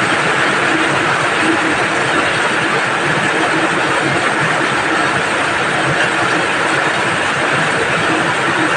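Steady heavy rain falling, an even hiss with no let-up.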